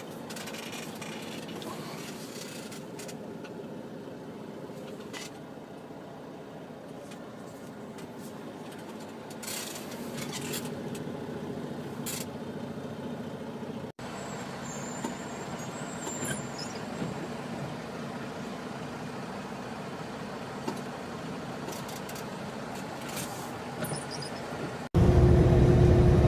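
Truck engine running steadily, a low hum with a few short sharp noises over it. About 25 seconds in, after a cut, a much louder and heavier engine rumble takes over.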